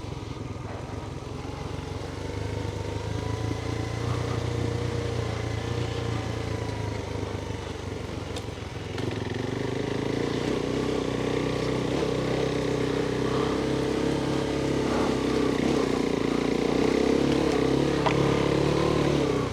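Adventure motorcycle engine running at low revs under load on rough off-road ground. The note rises and falls with the throttle and changes about nine seconds in.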